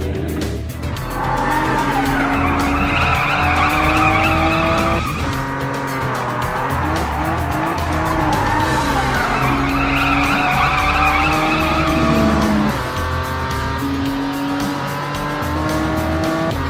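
Cartoon soundtrack: upbeat background music, its phrase repeating about every five seconds over a steady bass beat, mixed with cartoon vehicle sound effects.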